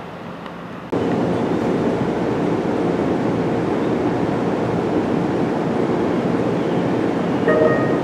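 Steady rumble of an electric train on the line, starting abruptly about a second in, with a short distant train horn blast near the end.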